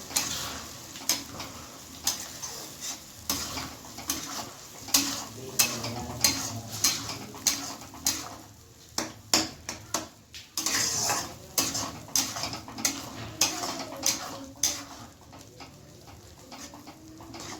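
A metal spoon knocking and scraping against a cooking pot while food is stirred, in sharp irregular clinks about once or twice a second, with a faint sizzle under them.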